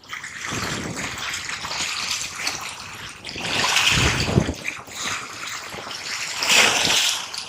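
Water washing and sloshing in a continuous rush, swelling about four seconds in and again near the end.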